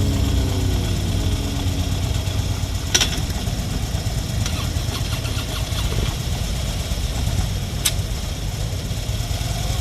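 Motorcycle engine idling with a steady low rumble, with two sharp clicks, about three seconds in and near the end.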